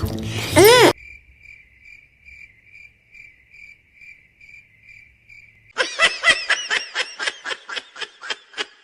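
A cricket chirping steadily in evenly spaced pulses, a few per second, after a brief bit of cartoon music cuts off. About six seconds in, rapid high-pitched giggling starts and runs in quick repeated bursts.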